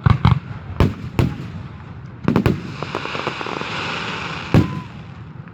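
Aerial fireworks bursting: a run of sharp bangs in the first two and a half seconds and another near the end, with a steady higher hiss in between.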